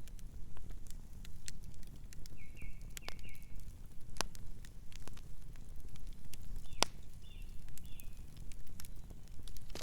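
Campfire burning: wood crackling with irregular sharp pops over a steady low rumble of flames, with a couple of louder snaps.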